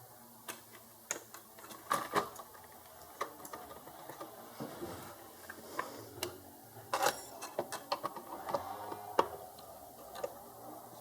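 Irregular clicks, taps and knocks of hands handling plastic and metal parts as a circuit board is fitted into a sliding-gate motor's control housing.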